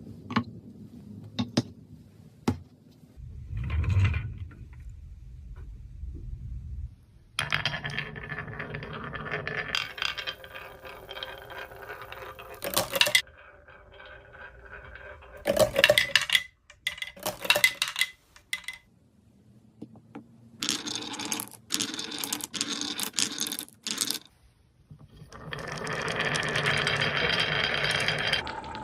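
Marbles rolling and clattering down a wooden marble run: a few separate clicks of marbles striking the track at first, then long stretches of dense rolling rattle broken by short pauses.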